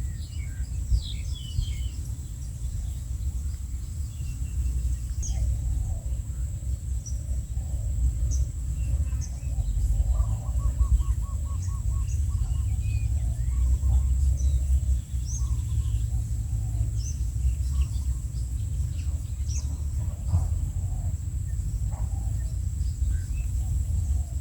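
Storm wind rumbling and buffeting on the microphone, with birds chirping and calling in short scattered notes over it.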